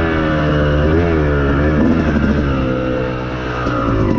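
Yamaha YZ250 two-stroke single-cylinder motocross engine being ridden, revving up and down with the throttle, its pitch rising and falling several times.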